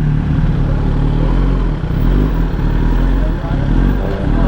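Motorcycle engine running steadily at low speed, a loud even drone with no big revs.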